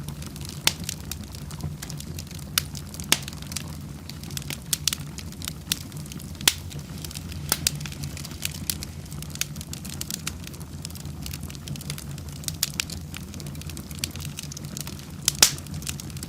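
Wood fire in a fireplace crackling: irregular sharp pops and snaps over a steady low rumble of the flames, with one louder pop near the end.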